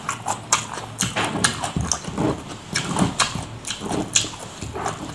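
A person chewing a mouthful of rice and grilled catfish with loud wet smacking: a run of short clicks, about three a second.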